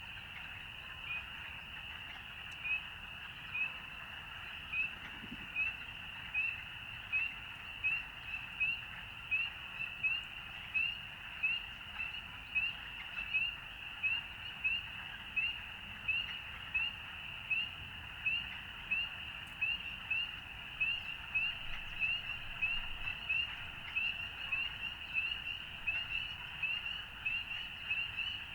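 A steady chorus of frogs calling. Over it, a nearer frog gives short, high, rising peeps, one about every 0.7 seconds, starting a couple of seconds in.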